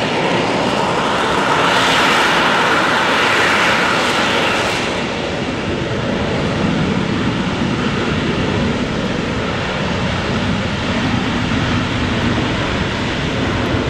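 AV-8B Harrier II Plus's Pegasus vectored-thrust turbofan running loud in a vertical landing. The hissing jet roar eases about five seconds in as the throttle comes back close to the ground, and a lower steady rumble carries on.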